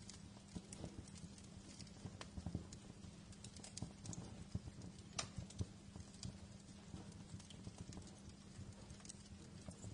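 Wood fire in a fireplace crackling: irregular sharp snaps and pops, several a second, over a low steady rumble.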